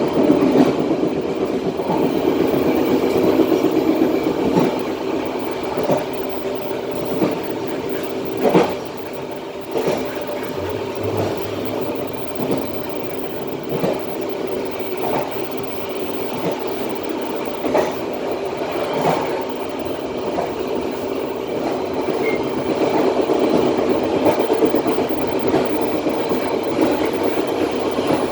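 Passenger train running along the line, heard from the rear of the last carriage: a steady rumble of wheels on rails, with a short knock every second or two.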